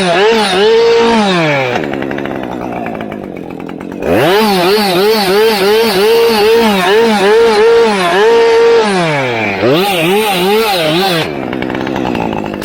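Two-stroke chainsaw revved in quick repeated blips, dropping to a steady idle about two seconds in, climbing back into blipping revs at around four seconds, and settling to idle again near the end.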